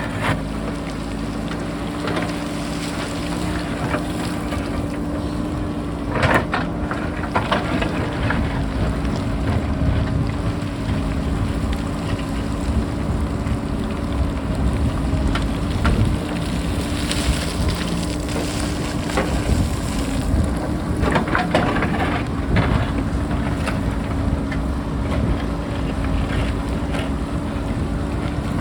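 JCB backhoe loader's diesel engine running steadily under strong wind buffeting the microphone, with a few clattering knocks of rock, about six seconds in and again around twenty-one seconds.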